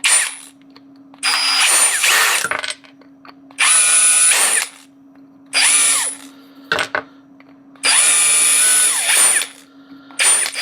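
Small handheld power tool's motor running in about six short bursts, each spinning up and winding down, over a steady low electrical hum.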